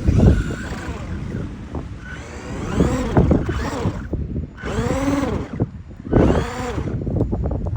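Electric motor of a Traxxas RC car whining up and back down in several short throttle bursts, with wind noise on the microphone.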